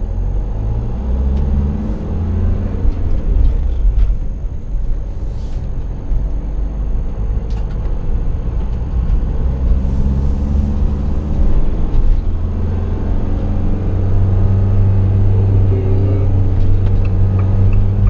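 Motorhome engine and road noise heard from inside the cab as it drives off and cruises, the engine hum steadying and growing stronger in the second half. Near the end the turn indicator starts ticking evenly, a couple of clicks a second.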